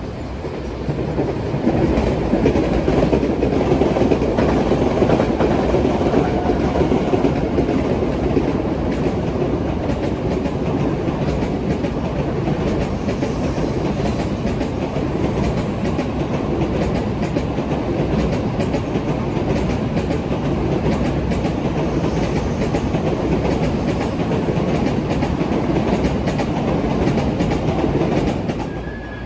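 Train passing on the line, its wheels rumbling steadily and clicking over the rail joints. The sound builds up about a second in and drops away near the end.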